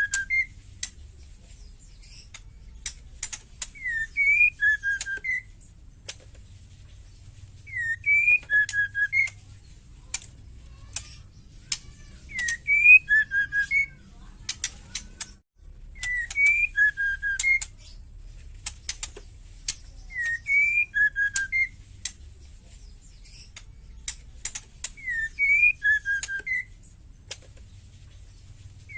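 Female white-rumped shama giving a short whistled phrase of a few notes about every four seconds, with sharp dry clicking ketrek calls in between.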